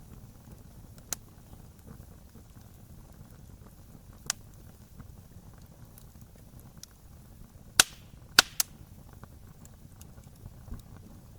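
Wood campfire burning: a low steady rumble under occasional sharp crackling pops from the burning wood. The loudest two pops come about eight seconds in, with a third right after.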